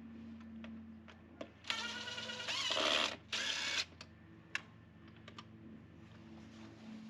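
A power drill runs in two short bursts, the first about two seconds in and about a second and a half long, its pitch sagging briefly under load, the second shorter. Scattered light clicks and knocks of hardware and tools come before and after.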